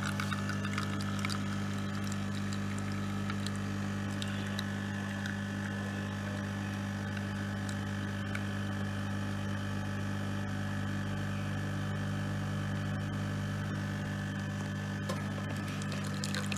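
Siemens CT636LES6 coffee machine running its pump with a steady low hum.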